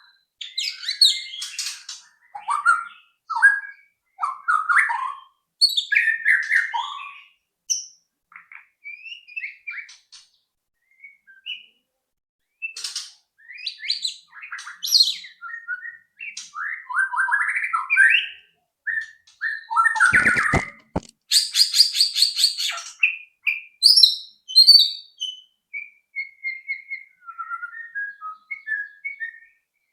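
White-rumped shama (murai batu) singing: a varied run of whistled phrases, slurred glides and quick trills, with a harsh rapid rattle a little past the middle, just after a few short low knocks.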